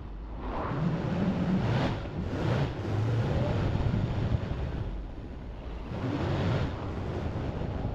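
A heavy vehicle's engine running under load, its revs rising and easing several times.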